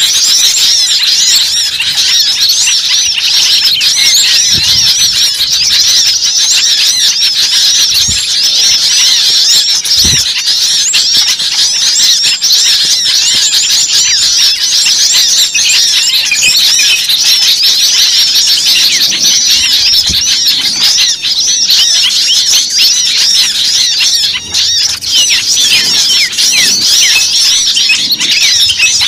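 Many small birds chirping at once, a dense and continuous chorus of short high chirps overlapping one another, with a couple of faint low thumps.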